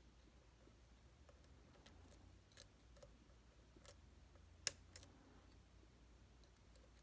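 Faint, scattered small clicks of a dimple pick working the pins and sliders inside a Titan T250 dimple lock, with one sharper click about two-thirds of the way in.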